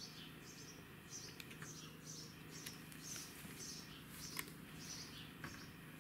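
A small bird chirping over and over, faint, in short high chirps about two a second, with a few faint ticks.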